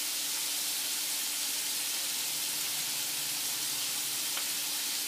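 Scallops sizzling in browned butter in a frying pan as they sear: a steady, even sizzle.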